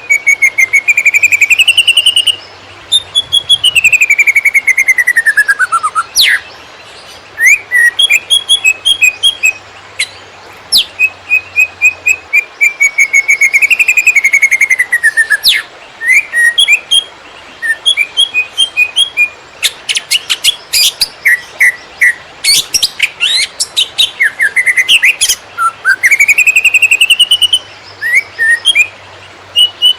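Green leafbird (cucak ijo) singing nonstop in the rapid 'konslet' style: fast runs of chirps and chattering notes mixed with long whistled phrases that glide up and down in pitch.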